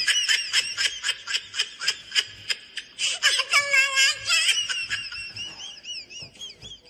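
High-pitched laughter in quick repeated bursts, about five a second, with squealing pitch glides, trailing off near the end.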